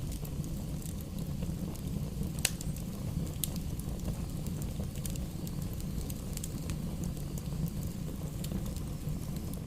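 Wood fire burning in a fireplace: a steady low rush of flames with scattered crackles and pops from the burning logs, the sharpest pop about two and a half seconds in.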